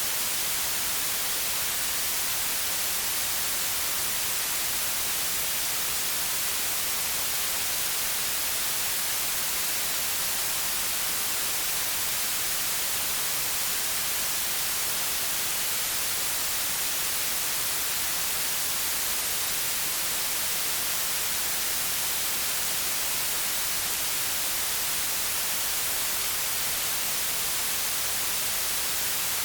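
Steady white noise: an even, unchanging hiss, brightest in the treble, with no other sound.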